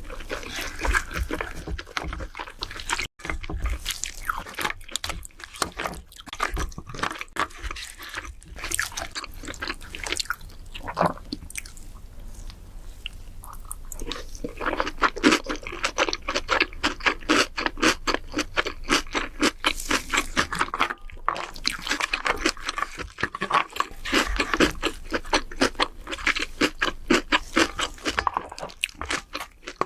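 A person chewing and crunching while eating king crab, a steady run of wet clicks and crunches that becomes faster and denser about halfway through.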